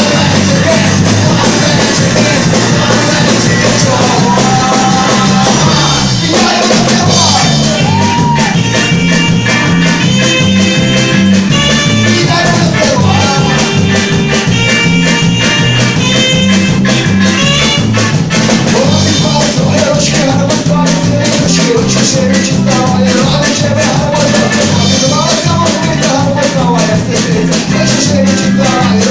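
Rock band playing live, with a singing voice over bass, guitar and drum kit at a steady beat.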